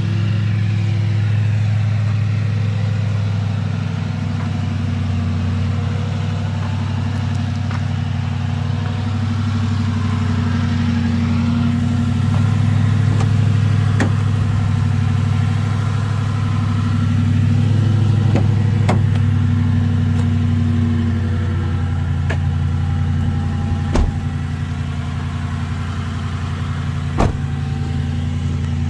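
A vehicle's engine running, its note swelling and easing a few times, with a few sharp knocks scattered through it.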